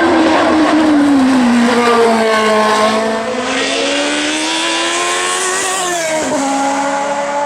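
Hill-climb race car engine at high revs. Its pitch falls at first, then climbs steadily, drops sharply about six seconds in as it shifts gear, and holds after that.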